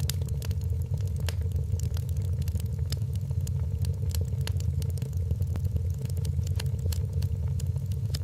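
Wood fire in a fireplace crackling, with frequent short, irregular pops and snaps over a steady low rumble.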